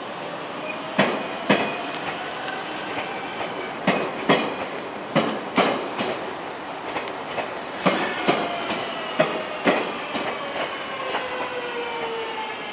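JR Central 383 series electric train rolling past on a shunting move, its wheels clicking over rail joints in pairs, five pairs in all. A whining tone under the clicks falls in pitch in the second half.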